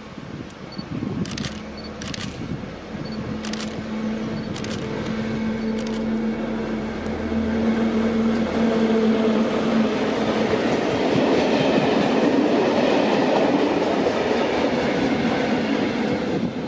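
A train passing close by on the track: a steady hum in the first half, then the rumble of wheels on rail builds and stays loud. A few sharp clicks in the first six seconds.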